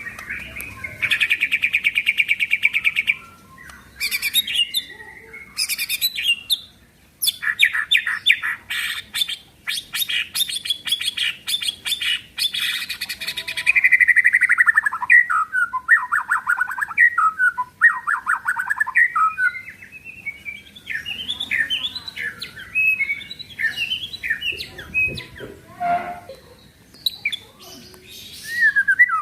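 White-rumped shama singing, its song built from fast rattling click trains (the 'kretekan'), rapid trills that slide down in pitch around the middle, and quick varied chirps and whistles toward the end.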